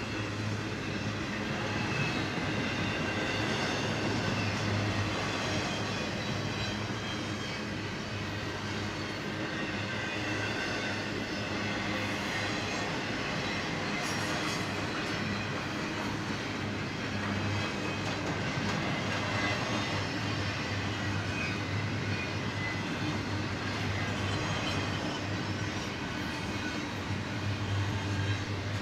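Double-stack intermodal freight train's well cars rolling past: a steady, unbroken noise of steel wheels on rail.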